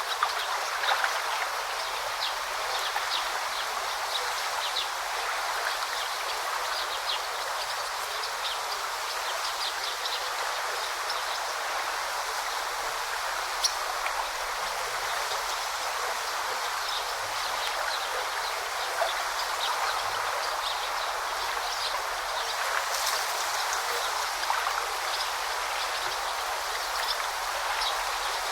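A forest stream babbling steadily, with many brief high plinks scattered over the flow.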